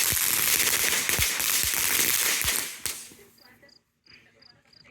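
A firework spraying sparks, a steady loud hiss laced with rapid crackling pops, that dies out about three seconds in as it burns out.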